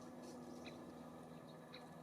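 Faint, short, high chirps from small songbirds at a feeder, a few scattered notes over a steady low background hum.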